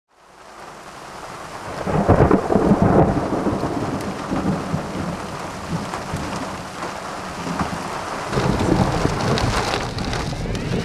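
Thunder rumbling in a thunderstorm, fading in at the start, with the heaviest rolls about two to three seconds in and again around nine seconds, over a steady hiss.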